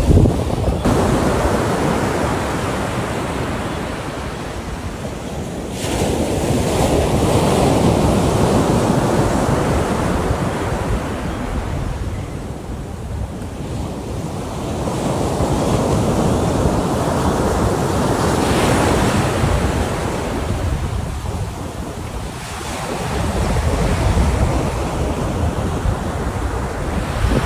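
Ocean surf breaking on a beach, a steady wash that swells and fades roughly every eight seconds.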